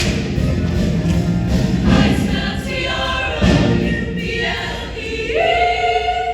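Show choir singing to music, many voices together; about five seconds in, a pitch slides up and is held as a long note.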